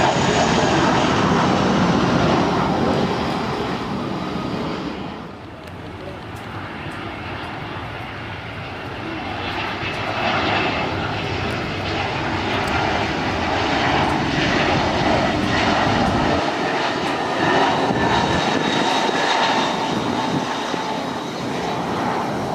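Jet aircraft engines, loud at first and fading about five seconds in, then building again with a high whine.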